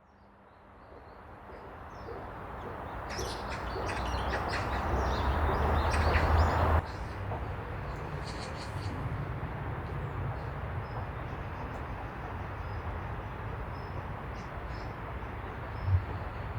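Outdoor wind rumbling on the microphone over a steady hiss, with small birds chirping now and then. It builds over the first several seconds, drops suddenly to a steadier level, and there is a brief thump near the end.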